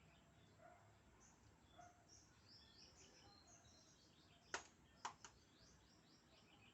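Faint, quick chirps of small birds repeating. A little past the middle come two sharp clicks about half a second apart, with a softer one just after.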